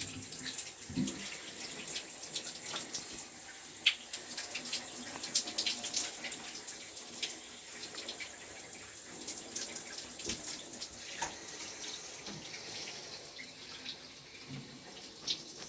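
Water running from a tap, with irregular splashing.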